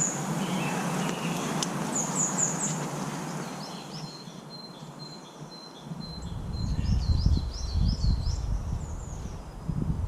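Small birds chirping and calling repeatedly, with a thin high trill through the middle. From about six seconds in, a low uneven rumble joins in underneath.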